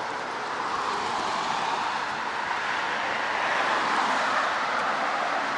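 Street traffic noise: the even hiss of a passing vehicle, growing gradually louder toward the middle.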